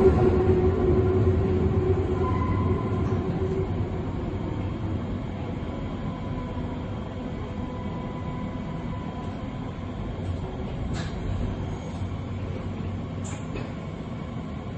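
Berlin U-Bahn U3 train running, its rumble slowly dying away, with a faint hum early on and two faint clicks near the end.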